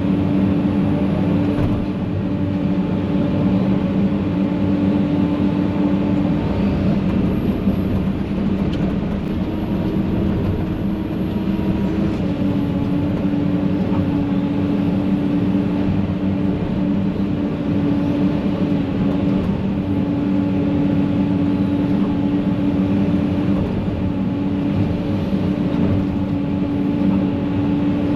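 Forestry mulcher running steadily, with a constant engine drone that shifts slightly in pitch around the middle.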